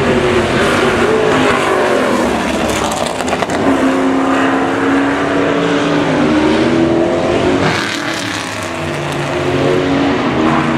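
V8 race car engines running hard on track, their pitch falling over the first few seconds, then climbing again with a short dip near the end, as with cars braking, passing and accelerating away.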